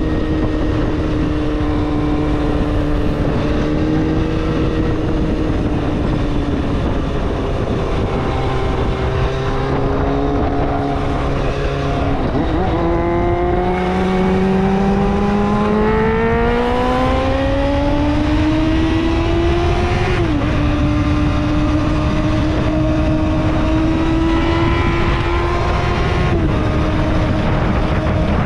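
Kawasaki ZXR250's high-revving inline-four engine under way, a steady engine note that climbs in pitch for several seconds as the bike accelerates. It drops sharply at an upshift about two-thirds of the way through and again near the end.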